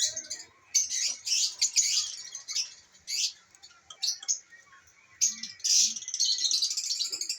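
Masked lovebirds calling with sharp, high-pitched chirps in irregular bursts, running into a quick chattering series near the end.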